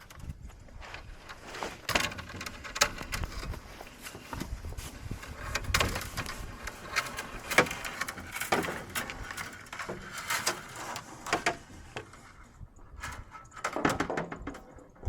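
High-tensile fence wire being handled and fed through the holes of plastic fence posts: irregular clicks, scrapes and rattles.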